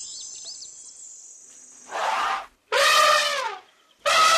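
Elephant trumpeting: three brassy calls that bend in pitch, the second and third louder and longer than the first. They follow a fading high chirring of insects.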